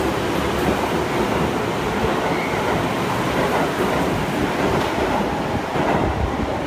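Chiba New Town Railway 9100-series train departing an underground station, a steady noise of its wheels running on the rails as the cars pass and pick up speed. The noise carries on, echoing in the tunnel, after the last car clears the platform near the end.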